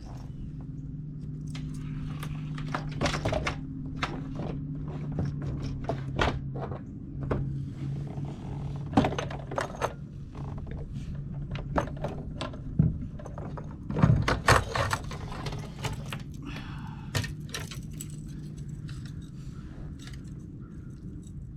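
Irregular clicks, knocks and light rattles of fishing tackle and gear being handled in a kayak, over a steady low hum.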